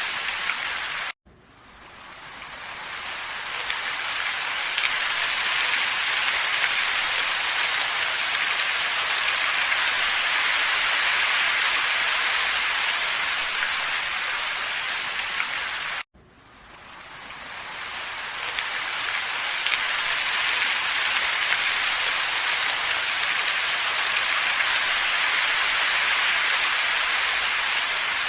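A looped ambience track of steady, even hiss. It cuts out abruptly about a second in and again about sixteen seconds in, each time fading back up over a few seconds as the loop restarts.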